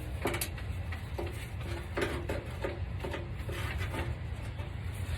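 About ten light, irregular clicks and clinks from hands working a small wiring-harness retaining clip loose, over a steady low hum.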